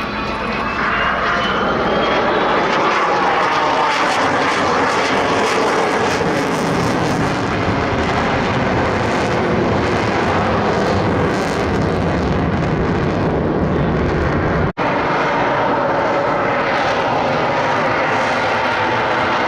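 F-22 Raptor's twin turbofan engines during a demonstration pass: loud, steady jet noise, with a thin rising whine near the start and a momentary break in the sound about fifteen seconds in.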